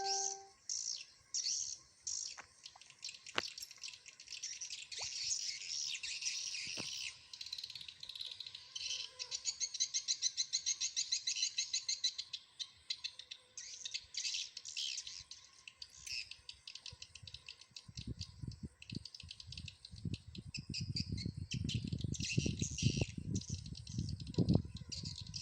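Swiftlets twittering in dense, high chirps, with a stretch of rapid buzzy trills about a third of the way in: a busy swiftlet colony calling at the entry hole of a swiftlet house. A low rumbling noise comes in over the last third.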